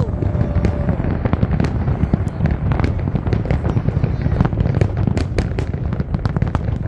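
Fireworks display going off, with dense, rapid crackling pops over a constant low rumble.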